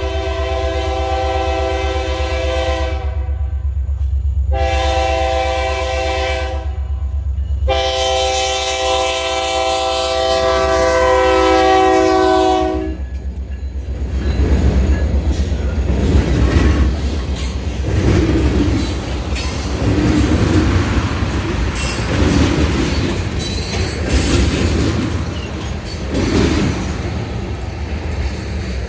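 Diesel locomotive's air horn blowing three blasts: one ending about three seconds in, a shorter one, then a long one that stops about halfway through. A deep engine rumble runs beneath. The locomotive then passes close, its wheels clattering rhythmically over the rail joints.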